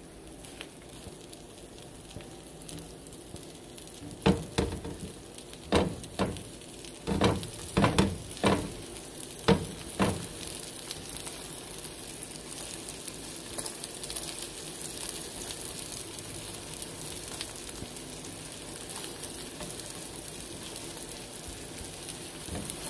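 Hot dogs and egg sizzling in butter in a nonstick skillet, a steady frying hiss that grows brighter in the second half. Between about 4 and 10 seconds in, a run of about ten short, loud scrapes and knocks as a spatula works the egg in the pan.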